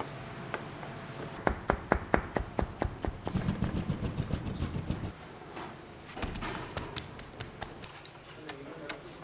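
A run of rapid, regular knocks, about five a second, for a few seconds, then quieter scattered knocks over background noise.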